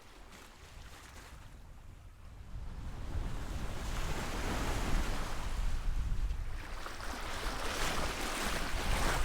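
Sea waves rushing with wind on the microphone, faint for the first two or three seconds, then a louder steady rush.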